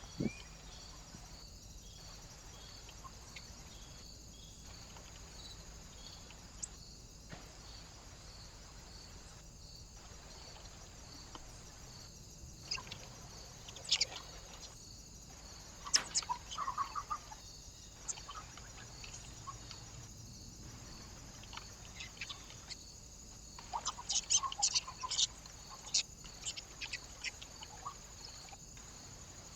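Small birds at a feeder giving short, sharp calls in scattered bursts, with clusters about halfway through and again near the end, over a steady high hiss.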